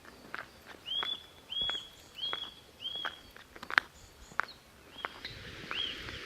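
Eurasian nuthatch singing: a run of four short, arched whistled notes about two-thirds of a second apart, and two more near the end. Sharp clicks are heard between the notes.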